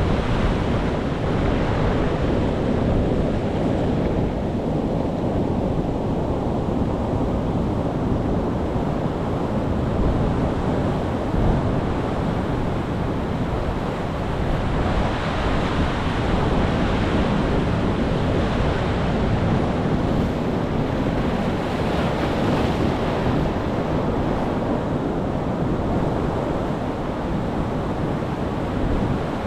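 Ocean waves breaking and washing on the shore, a steady rushing surf that swells and ebbs slowly.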